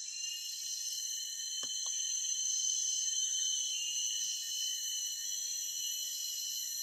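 Forest insects trilling in a steady, high-pitched chorus of several layered tones, swelling slightly after about a second. Two faint ticks just under two seconds in.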